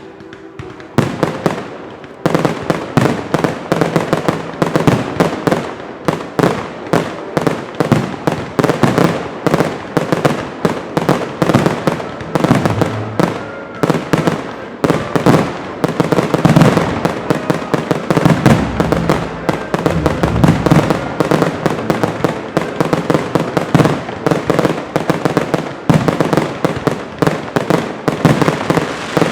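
Fireworks display with aerial shells bursting in rapid, dense succession, several bangs a second, starting about a second in.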